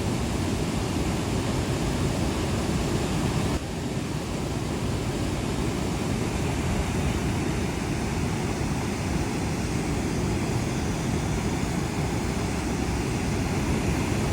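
Waterfall on a creek: fast-flowing water rushing over the falls in a steady, deep roar of noise, with a small drop in level about three and a half seconds in.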